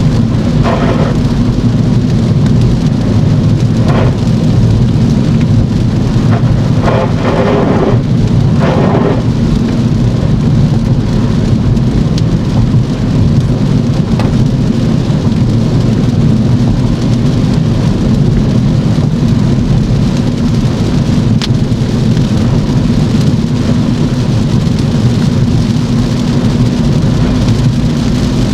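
Car driving in heavy rain: steady rain hiss and wet-road noise over a loud, constant low rumble. A few brief louder sounds come in the first ten seconds.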